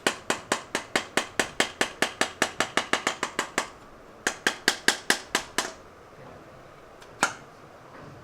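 Light hammer taps on metal, evenly paced at about five a second: a long run, a brief pause, a shorter run, then one last tap near the end, each with a short ring. They come as the megaphone exhaust's end cap is worked loose.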